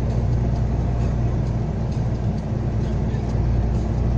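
Truck diesel engine running steadily under light throttle, heard from inside the cab, with a steady low drone as it pulls uphill in a high gear.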